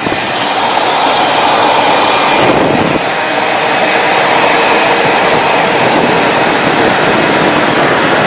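Steady rushing vehicle noise, the sound of a heavy truck moving at speed; the high hiss eases slightly about two and a half seconds in.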